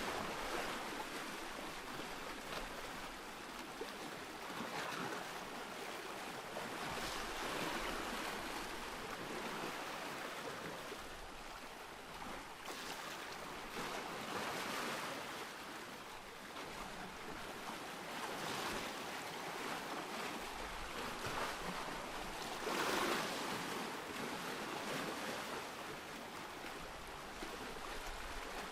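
Ocean surf: waves breaking and washing in, swelling and easing every few seconds, with the biggest wave about 23 seconds in.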